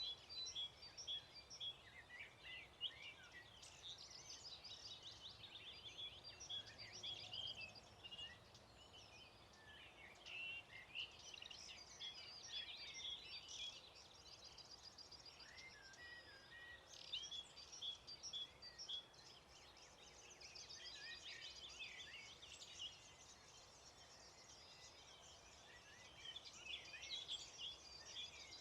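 A dawn chorus of songbirds: several birds singing and calling at once, their songs overlapping without pause, with a few quick high trills among them.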